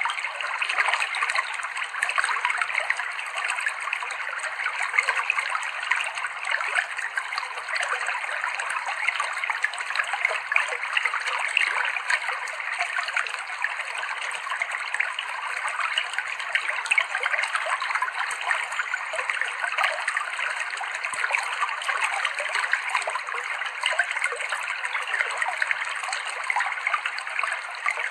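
River water flowing and trickling over rocks, a steady babbling splash that holds even throughout.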